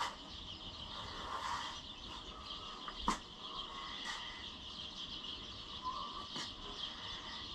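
Outdoor ambience of insects and chirping birds, with a few sharp knocks scattered through it, the loudest about three seconds in.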